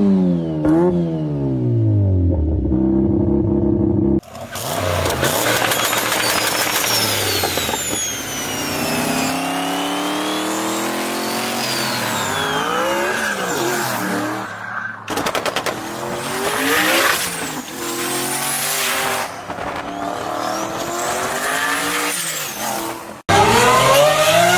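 Car engines revving in a run of short clips joined by hard cuts. The first one's pitch falls steadily, then engines rise and fall in pitch with high squealing glides over them, and a sharp rising rev comes near the end.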